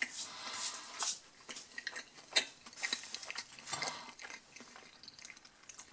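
Chewing and close handling of fried-style breaded snack food: irregular soft crackles and clicks, busiest in the first second and thinning out toward the end.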